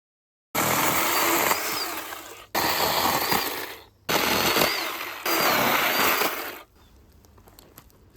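Power saw cutting into the trunk of a fallen tree in four loud stretches separated by short breaks, the last one dying away near the end.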